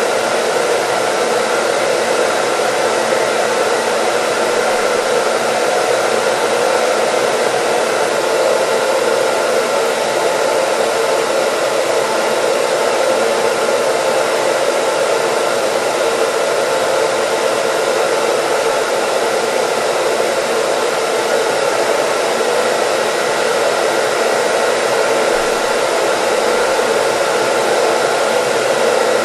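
Hair dryer running steadily: an even, unchanging rush of air and motor noise with a faint steady whine above it.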